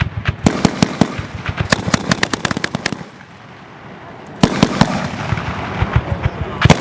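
40 mm grenades from an MK 19 automatic grenade launcher going off in a rapid, irregular string of sharp cracks. The string breaks off about three seconds in, and a second string starts about a second and a half later.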